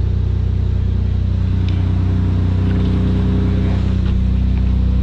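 2001 Toyota 4Runner's 3.4-litre V6 idling steadily, heard from inside the cabin.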